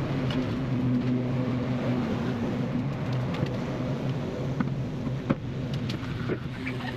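A steady machine hum with a few light clicks and knocks over it.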